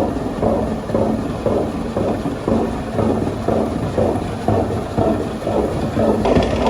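Old flour mill machinery running: a steady rumble with a hum, pulsing roughly twice a second.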